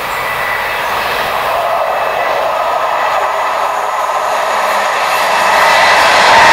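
Diesel-hauled passenger train approaching along the track, its engine and wheel noise growing steadily louder, with a step up near the end as it draws close. A thin high steady whine runs through it.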